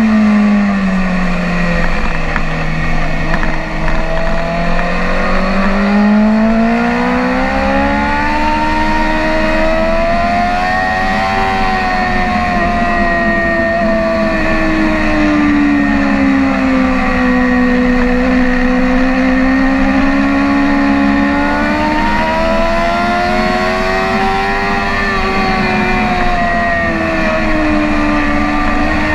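BMW S1000RR inline-four sportbike engine under way on a race track, its pitch rising and falling in long smooth sweeps as the throttle is worked. A steady rush runs underneath.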